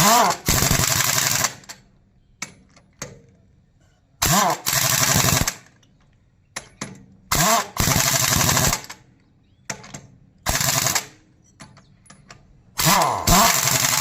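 Pneumatic impact wrench running on a truck's wheel nuts in five bursts of about a second each. Each burst opens with the air motor's rising whine, then goes into rapid hammering.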